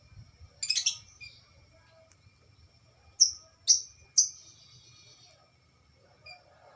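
Songbird calling: a quick burst of chattering notes about half a second in, then three loud, sharp chirps, each falling in pitch, about half a second apart near the middle. A faint steady high-pitched tone runs beneath.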